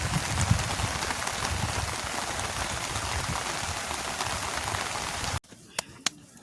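Steady heavy rain falling as an even, dense hiss. It cuts off abruptly about five seconds in, leaving a quieter background with a few sharp ticks.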